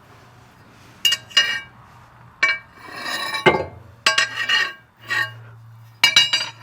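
Metal tools and parts clinking and ringing against each other while working on the steel mower deck blades: sharp clinks in several small clusters, with a scraping rattle about three seconds in. A steady low hum runs underneath.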